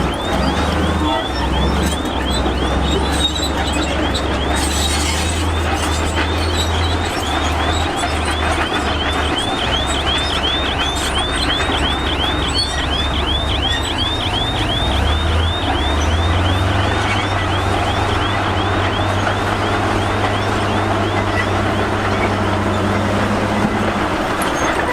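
Heavy diesel earthmoving machinery running steadily, with a rhythmic high-pitched squeal repeating several times a second until about two-thirds of the way through.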